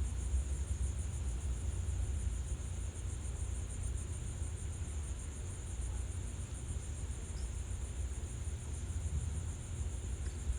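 Insects chirring steadily in a high, fine pulsing trill, over a constant low rumble.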